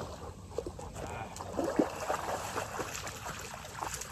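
River water splashing and sloshing around a dog swimming after a stick, a string of short splashes with the loudest just under two seconds in.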